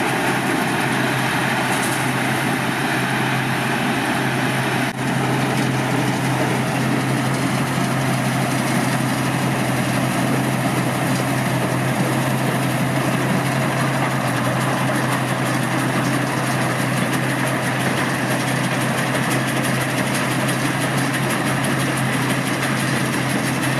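Large rice combine harvester running steadily while harvesting. Its Hino diesel engine gives a constant low hum under the wide noise of the machinery.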